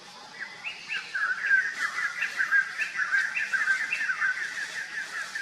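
A songbird singing a fast, jumbled run of short chirps and whistles, starting about half a second in.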